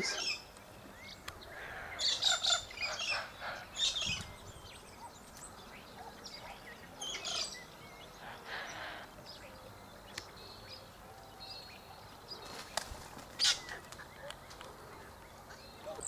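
Bird chirps and short calls in scattered clusters: a run of them about two to four seconds in, another around seven seconds in, and one or two sharp calls near thirteen seconds in, between stretches of faint outdoor background.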